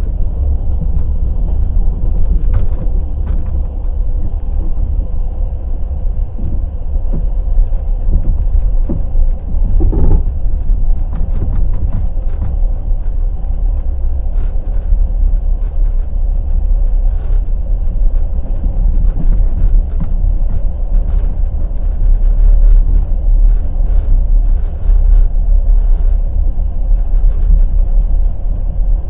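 Passenger train running on the rails: a steady heavy rumble with scattered clicks and knocks from the wheels.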